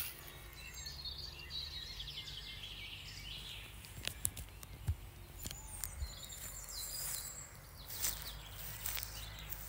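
Small birds chirping and twittering in the distance, in two spells, over a steady low rumble of wind on the microphone, with a few soft clicks partway through.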